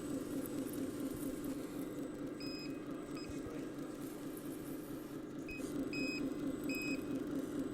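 RC model tractor's electronic sound module playing a steady engine drone, with short high electronic beeps in two groups, about five in all, partway through.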